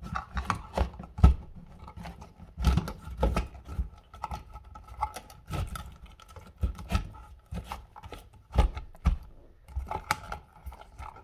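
Irregular clicks, scrapes and knocks of hand tools and electrical wires being handled at an outlet box.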